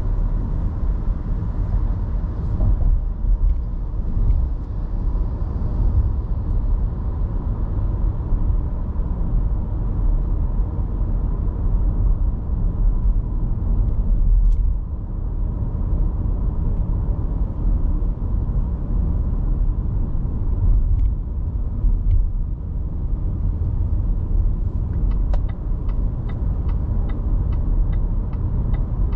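Car driving, with a steady low rumble of road and engine noise. Near the end, a run of evenly spaced ticks comes in, about three a second.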